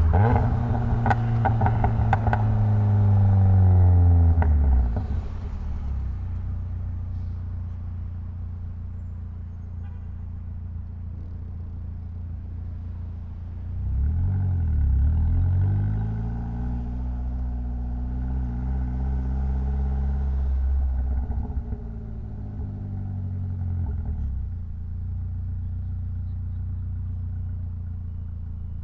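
Mitsubishi Lancer Evolution X's turbocharged 2.0-litre four-cylinder engine driving in traffic: the engine note falls away as the car slows over the first few seconds, runs steady and quieter, picks up under acceleration about halfway through, then eases back and settles.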